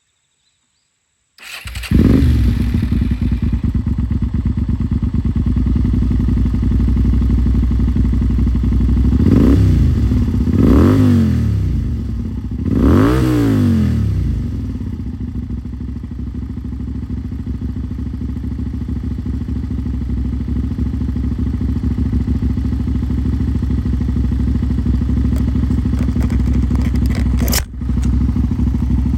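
Suzuki SV400S carbureted 400 cc V-twin idling through a KENZ SPORTS aftermarket muffler, with three quick throttle blips in the middle before settling back to idle.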